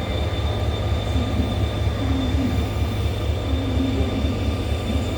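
Seoul Subway Line 1 electric train at Yongsan Station, a steady loud rumble with several steady high-pitched whines running through it.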